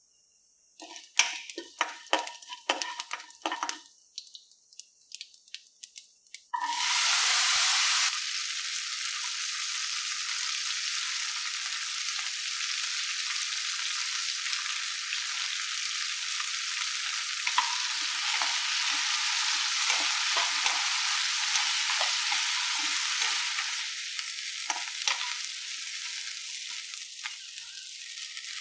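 Quick clicks and taps from the spices in the pan. About six and a half seconds in, whole shallots hit hot oil in a nonstick wok with a loud sudden sizzle, which settles into a steady frying sizzle. In the second half a spatula stirs and scrapes through the frying shallots.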